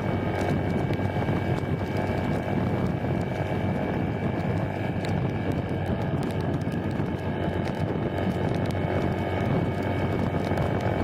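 Steady ride noise from a small underbone motorcycle on the move in heavy rain: engine hum and wind rush over the camera microphone, with scattered light ticks that fit raindrops hitting it.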